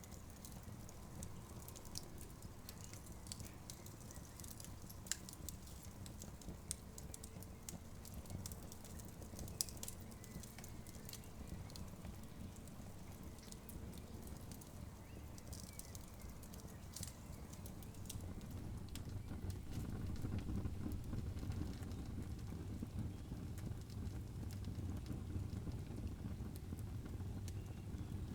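Campfire crackling, with scattered sharp pops over a low steady rumble that grows louder about two-thirds of the way through.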